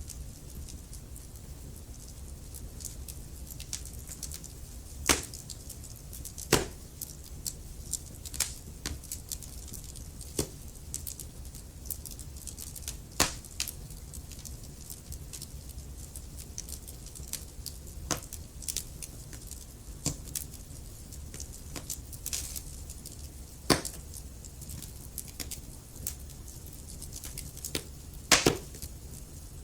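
Wood fire crackling in a fireplace: irregular sharp pops and snaps, a few much louder than the rest, over a steady low rumble of the burning fire.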